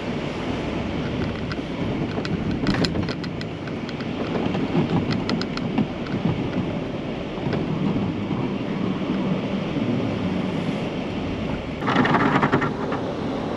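Blizzard wind rumbling and buffeting against the microphone, with a louder rushing burst near the end.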